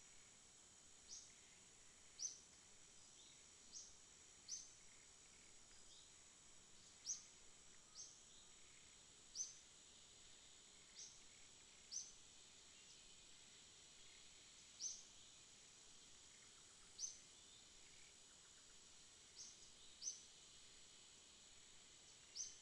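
Night ambience: a steady, faint, high-pitched insect drone with short, high chirps repeating irregularly about every one to two seconds.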